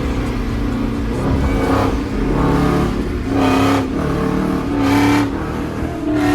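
Dodge Charger Hellcat Redeye's supercharged 6.2-litre V8 sounding through an exhaust with the mid mufflers deleted, swelling in about five loud surges of revs roughly a second apart.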